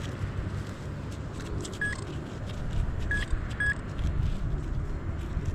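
Metal detector giving three short beeps of the same pitch, at about two seconds and again twice near three and a half seconds, over a low steady rumble. These are target signals that the detectorist reads as a nickel.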